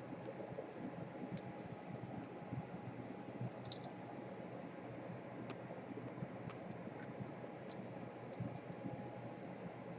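Scattered small, sharp clicks and taps of a tool and small parts being handled while taking a laptop apart, irregularly spaced over a steady low hum.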